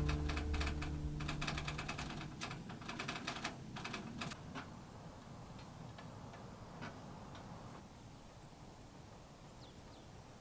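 Firewood crackling in a wood stove: dense sharp pops for the first few seconds, then sparser and fainter. The tail of soft guitar music fades out in the first second.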